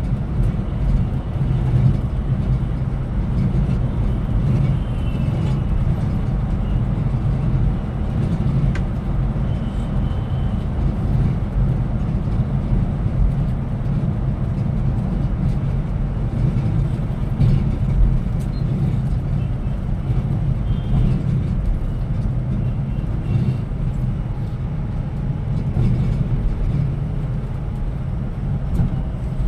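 Steady low engine and road rumble of a Scania Metrolink multi-axle coach on the move.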